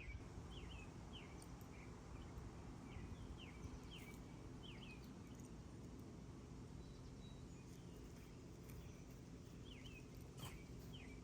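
A bird chirping faintly over a low steady background hum: short, sharply falling chirps, a dozen or so, mostly in the first half and again near the end.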